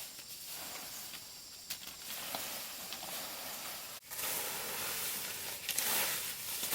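Hissing, rustling noise that swells and fades irregularly, with a few small clicks; it breaks off sharply about four seconds in and comes back louder.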